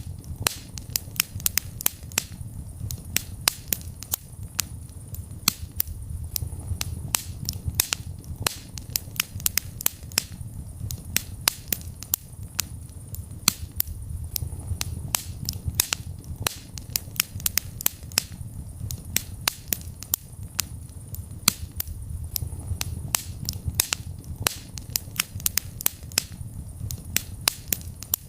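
Wood fire burning in a fireplace: a steady low rumble of flames with dense, irregular sharp crackles and pops, several every second.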